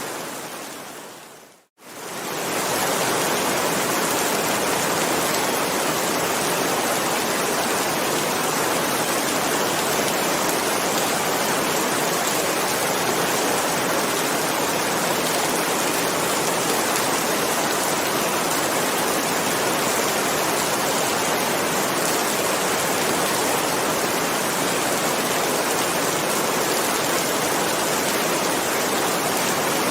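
Steady heavy rain, a dense even hiss. It fades out to silence about a second and a half in, then comes back within a second and runs on unchanged.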